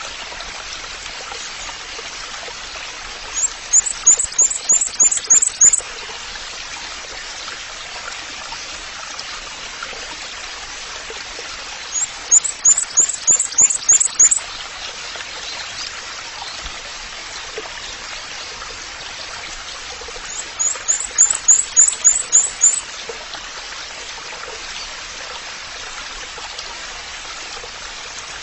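Water trickling steadily like a small stream, with a bird repeating a quick series of about eight high, sharp notes three times, roughly every eight seconds.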